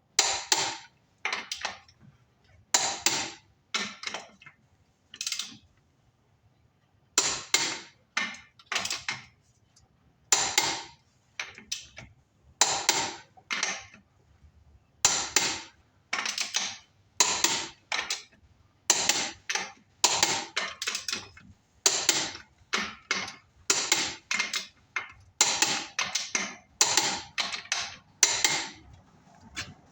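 Ratcheting torque wrench on wheel lug nuts: repeated short bursts of metal ratchet clicking, one stroke after another at uneven spacing, as the nuts are tightened down.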